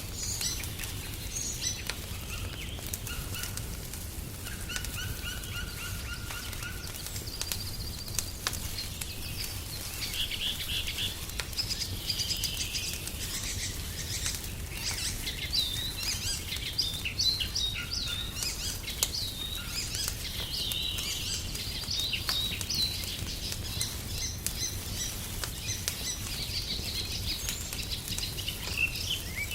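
Several songbirds chirping and singing, with short whistled notes and trills, thickest in the middle of the stretch, over the scattered sharp pops and crackles of a wood fire and a steady low rumble.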